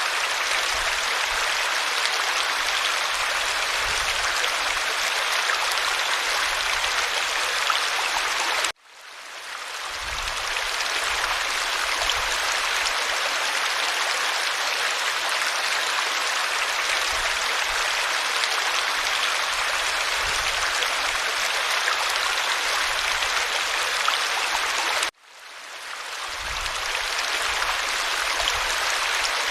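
Stream water flowing steadily. It cuts out suddenly twice and fades back in over about a second each time.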